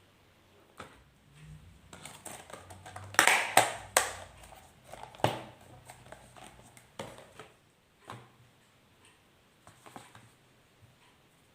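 Objects being handled in a kitchen: a scatter of knocks and clatters, loudest in a quick cluster about three to four seconds in, over a faint low hum.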